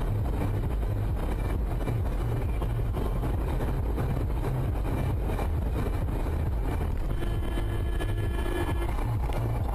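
Steady low rumble of a car driving, as picked up by a dashcam's microphone.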